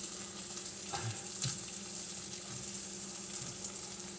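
Corned beef frying in a pan: a steady sizzle, with a couple of faint ticks around a second in.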